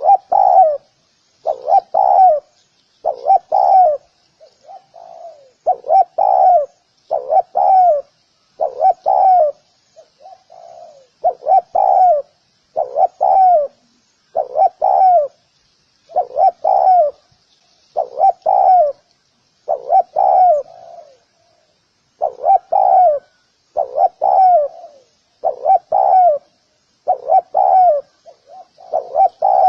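Spotted dove cooing: short phrases of two or three notes repeated about once every second and a half, with a few quieter phrases between them.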